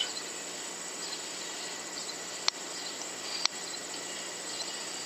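Steady high-pitched insect drone, like crickets, with faint bird chirps over it. Two sharp clicks about a second apart sound in the middle.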